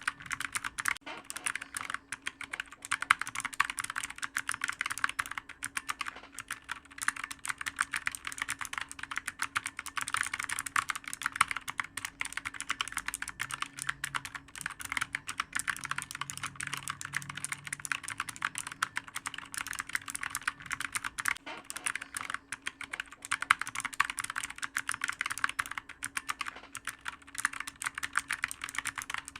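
Continuous fast typing on a clicky computer keyboard, a dense run of key clicks with occasional louder strikes.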